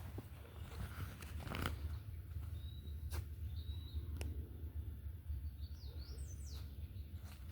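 Birds calling: a few short high whistles about three seconds in, then a quick run of chirps toward the end, over a steady low rumble and a few sharp clicks.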